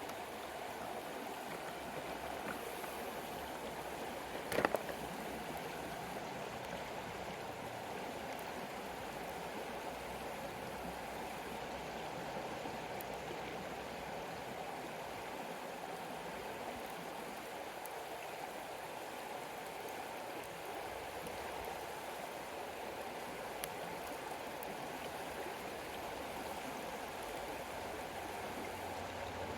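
River water flowing steadily over stones, an even rushing noise throughout, with one sharp click about four and a half seconds in.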